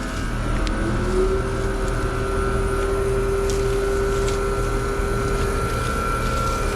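Trane two-stage air conditioner's outdoor condensing unit running on high stage, its compressor and ECM condenser fan humming steadily. A tone rises in pitch about a second in and then holds steady as the unit comes up to speed.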